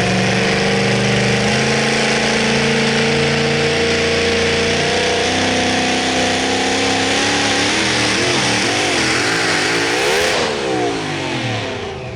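Competition pulling engine running flat out under load, its pitch slowly climbing. From about halfway through, the pitch wobbles rapidly up and down, then sweeps down and the engine fades as it comes off the throttle near the end.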